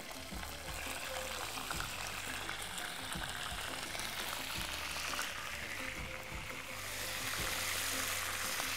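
Boiled chicken pieces sizzling as they fry in hot oil in a frying pan, the hiss growing louder near the end. Background music plays underneath.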